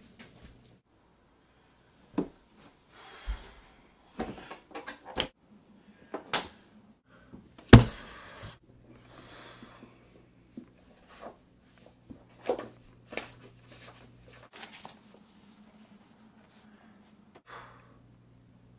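Scattered knocks and clicks, as of objects being handled and set down, the loudest about eight seconds in, over a low steady hum that drops out and comes back several times.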